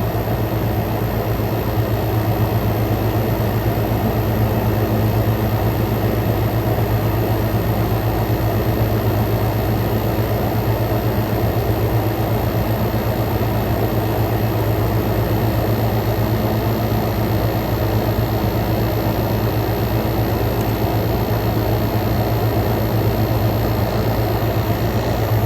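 Frigidaire Gallery GHWQ103WC1 10,000 BTU dual inverter window air conditioner running with its compressor at full power. It makes a steady low hum with the even rush of fan air.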